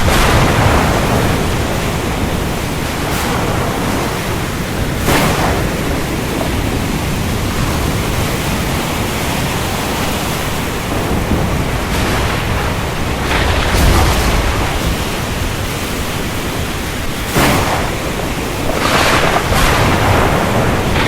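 Steady heavy rain with thunder: several sharp cracks, one about five seconds in and a cluster near the end, and a deep rumble around the middle.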